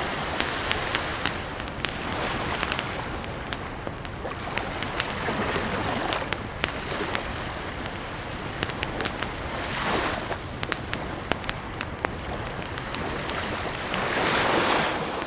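Campfire crackling, with many sharp pops and snaps over a steady hiss, and soft whooshing swells every few seconds, the loudest near the end.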